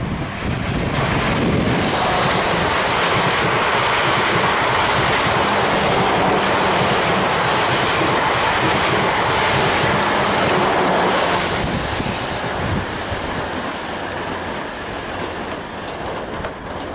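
South West Trains Class 444 electric multiple unit running past at speed, loud and steady for about ten seconds, then fading as it moves away.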